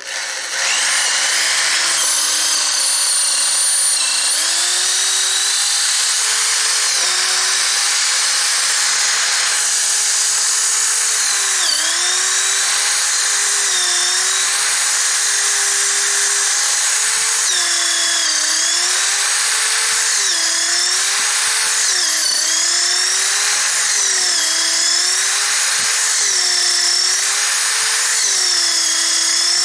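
Electric drill boring a bolt hole through the timber post and truss, the motor whining steadily. Its pitch dips again and again as the bit bites and loads, most often in the second half.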